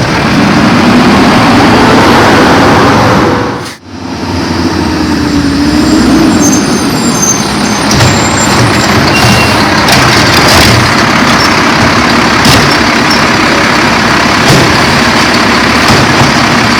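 Garbage truck working a pickup: its engine runs loud and revs up and down, with occasional knocks. The sound briefly drops away about four seconds in.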